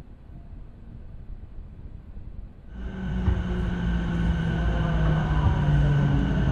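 JR Sobu Rapid Line electric train heard from inside, slowing along a station platform. A muffled rumble jumps to a louder, fuller running noise about three seconds in, with a motor whine slowly falling in pitch as it brakes.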